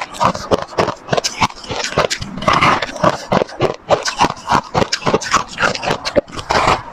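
Close-up crunching of white ice being bitten and chewed, a rapid, irregular run of sharp crunches several times a second.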